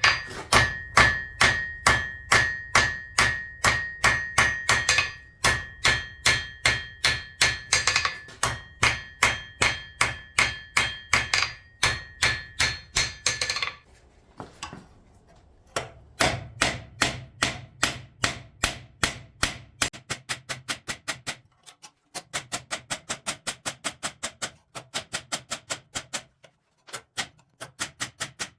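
Steady, rhythmic hand-hammer blows on steel against an anvil, about three or four a second, with a ringing tone through the first half. After a pause of about two seconds, a little past the middle, the hammering resumes faster and lighter, with a couple of short breaks.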